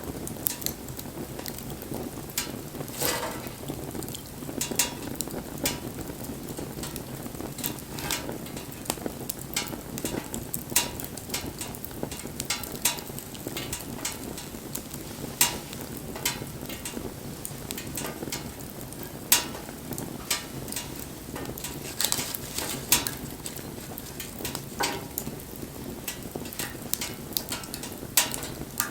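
Wood fire crackling, with frequent irregular sharp pops over a steady low hiss.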